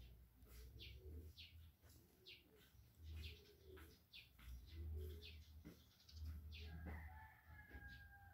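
Faint birds in the background: short high chirps repeating every half second or so, with low cooing in between. Near the end a steady held tone comes in.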